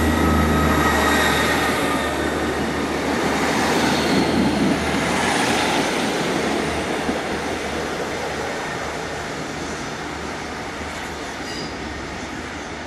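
A train running along the rails and fading steadily away. A low hum and a thin, high wheel squeal sound in the first couple of seconds.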